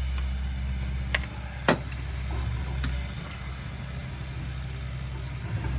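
A steady low engine drone, with two sharp clicks about a second in, the second one louder.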